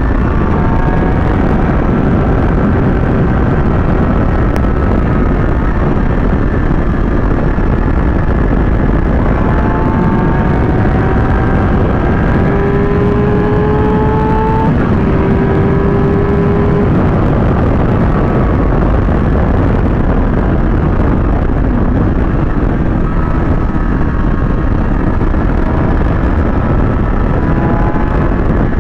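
Kawasaki ZX-6R inline-four sportbike engine running at highway speed under heavy wind rush on the mount microphone. The engine pitch climbs slowly, with a few small drops in pitch along the way.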